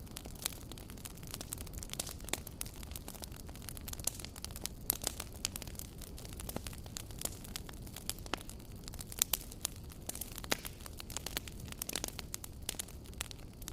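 Wood fire burning, crackling and popping with many sharp irregular snaps over a steady low rumble of the flames.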